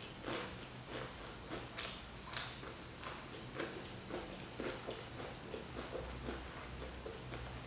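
Close-miked chewing and biting of food, with a run of short crunches about two a second. The two loudest bites come around two seconds in.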